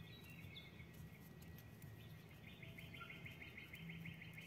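Near silence with faint bird chirping: a quick, evenly repeated run of high chirps starts about two seconds in.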